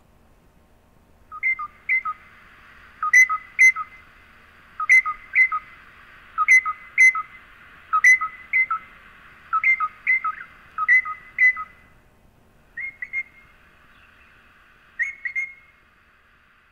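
Crimson rosellas giving short, clear whistled calls in pairs, a pair about every second and a half, then a few scattered notes near the end.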